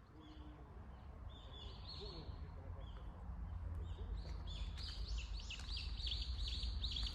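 Small birds chirping and singing outdoors, short arched notes repeated faster and more densely from about four seconds in, over a steady low rumble. The sound fades in at the start.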